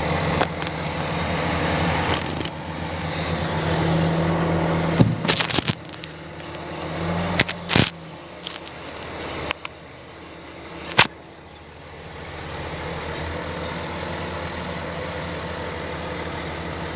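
Excavator's diesel engine running, working harder for the first few seconds and then easing off. Several sharp clanks about five, eight and eleven seconds in, followed by a steadier, quieter running.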